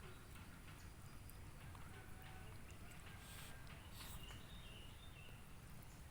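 Quiet background with a low steady rumble, a few faint clicks, a brief rustle about three seconds in, and faint short high chirps near the middle.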